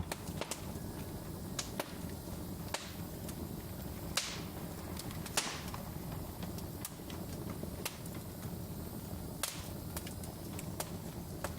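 Wood fire crackling in a fireplace: irregular sharp pops and snaps over a steady low rumble of the flames, with two louder pops about four and five and a half seconds in.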